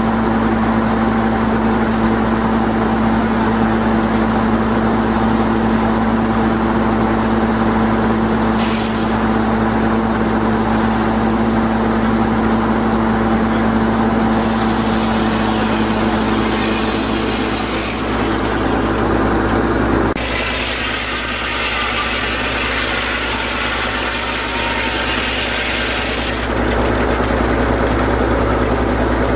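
Engine of a fairground sawmill running steadily. Twice a loud hiss joins in, for about three seconds around the middle and for about six seconds later on, while the engine note shifts.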